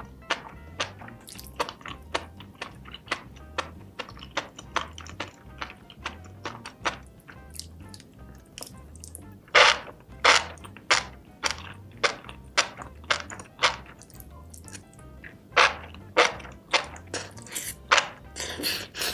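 Close-miked eating: wet chewing and mouth smacks on saucy food, heard as many sharp, irregular clicks, loudest about halfway through as a big bite is taken. Background music with a steady low beat plays underneath.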